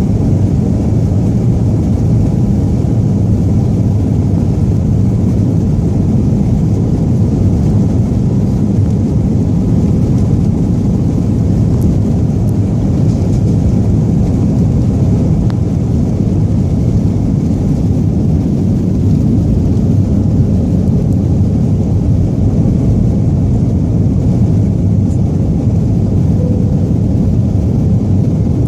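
Jet airliner engines and rushing air heard inside the passenger cabin during takeoff: a loud, steady low rumble.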